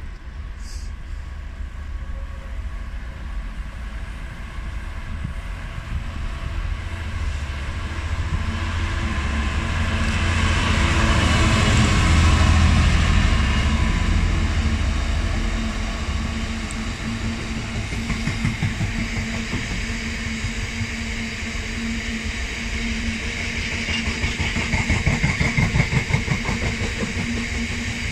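GB Railfreight Class 66 diesel locomotive, with its EMD two-stroke V12 engine, approaching and passing with a freight train, loudest about twelve seconds in. Then the wagons roll by with a rhythmic clatter of wheels, which grows louder again near the end.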